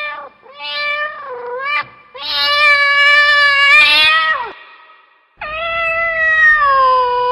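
Domestic cat meowing repeatedly: a short meow, then two long, drawn-out meows, with a brief pause before the last one.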